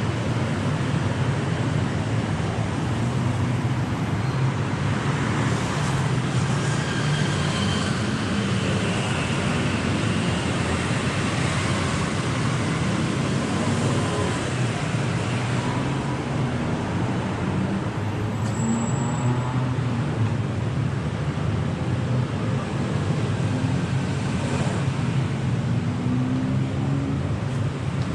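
Steady road traffic on a city street: a continuous rumble of passing vehicle engines and tyres, with no single event standing out.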